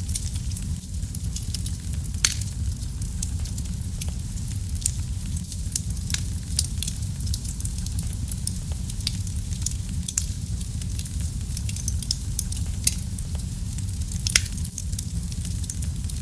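Wood fire burning in a fireplace: a steady low rumble of the flames with frequent sharp crackles and pops from the burning logs, a few louder snaps scattered through.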